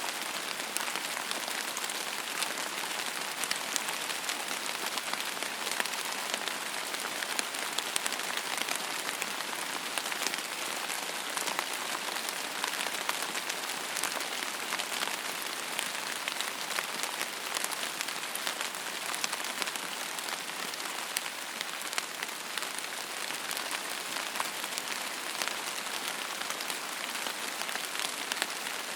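Steady rain falling on a surface, an even hiss studded with many small, sharp drop ticks, with no change in intensity.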